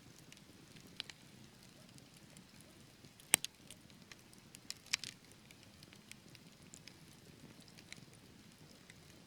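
Wood logs burning in a fireplace, crackling over a soft, steady hiss, with a few sharp pops; the loudest comes about a third of the way in.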